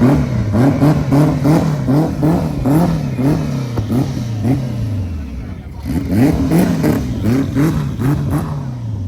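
Car engine revved hard in quick repeated blips, about two a second, in two runs with a short break between, then the revs dropping away near the end.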